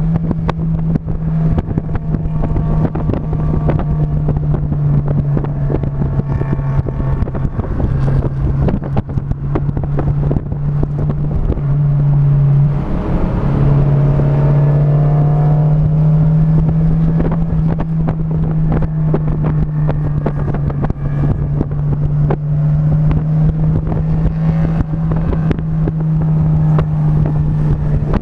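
Vehicle engine heard onboard while lapping a racetrack, running hard at a fairly steady pitch. It drops briefly about two-thirds of the way into the first half, then climbs again under acceleration. Wind buffets the microphone throughout.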